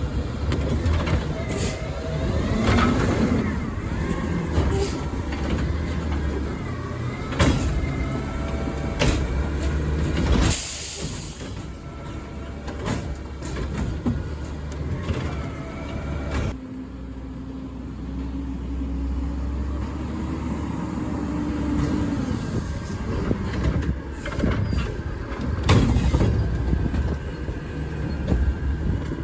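Garbage truck working its collection route: its diesel engine runs under repeated knocks and bangs, with a short air hiss about ten seconds in.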